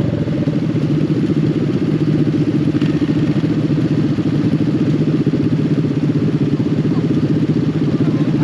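Small mini bike engine running steadily at a constant pace, with a fast, even pulsing beat.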